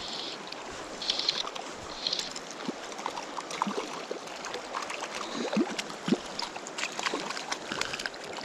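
River water running over rocks, with irregular small splashes, gurgles and sharp ticks as a hooked trout is played in.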